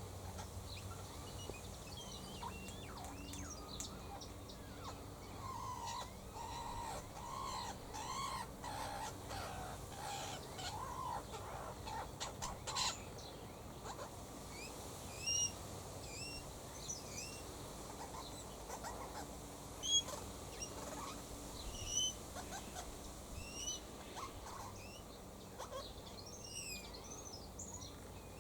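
Wild birds calling: a run of mid-pitched arching calls in the first half, then short, high upward chirps repeated at intervals through the second half.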